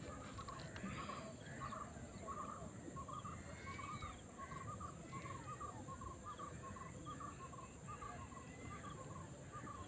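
Birds calling outdoors: short chirping calls repeat about twice a second, with other gliding calls now and then and a steady high-pitched tone in the background.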